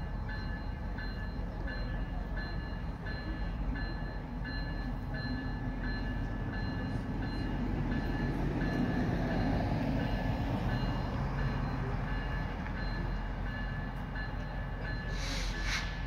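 Narrow-gauge diesel train approaching slowly: a low engine rumble that swells about halfway through, under a bell ringing steadily about twice a second. A brief sharp sound near the end.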